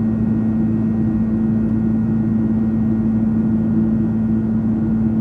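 Steady drone of a Boeing 767-300ER's cabin in flight: jet engine and airflow noise with a strong low steady hum.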